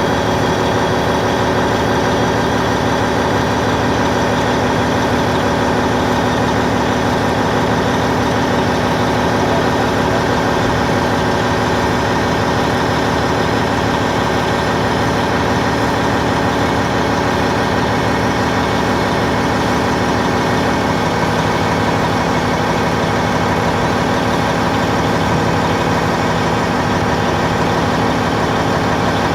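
Caterpillar D10N bulldozer's diesel engine running steadily at a constant speed.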